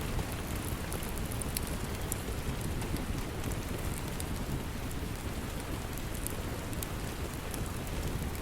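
Steady rain with scattered sharp crackles from a wood fire in a fireplace.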